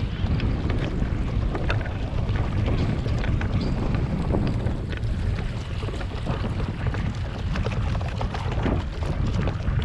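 Wind rumbling on the microphone over water splashing and lapping around a moving pedal kayak, with many small scattered ticks.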